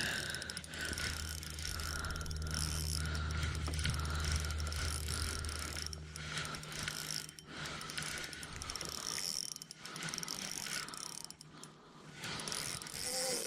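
Fishing reel being cranked in repeated bouts, a ticking, gear-driven whir that stops and starts as a hooked bass is reeled in. A low steady hum runs underneath and stops about six seconds in.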